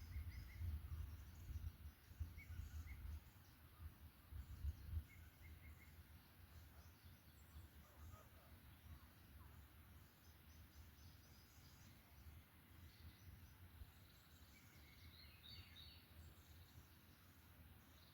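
Faint forest ambience: songbirds give short, scattered chirps, with small flurries of notes about ten and fifteen seconds in, over a low rumble that is strongest in the first few seconds.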